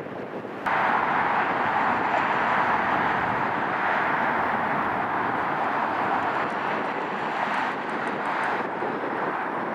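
Jet airliner engine noise: a steady rushing noise that cuts in abruptly about a second in and holds, easing slightly near the end.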